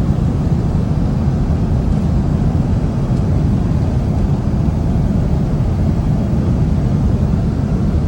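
Steady airliner cabin noise: a loud, even low rumble of jet engines and rushing air heard inside the passenger cabin.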